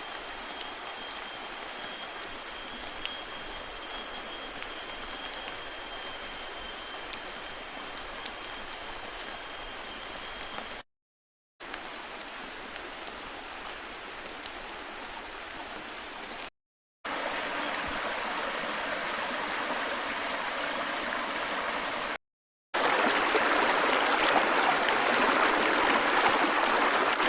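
Steady rain in the forest, heard in four short pieces separated by brief silent cuts. Each piece is louder than the last, and the heaviest comes near the end. The first piece has a thin steady high tone over the rain.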